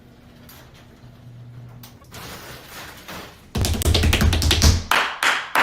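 Faint ticking, then about three and a half seconds in a sudden loud rumbling crash lasting about a second, followed by three sharp smacks near the end.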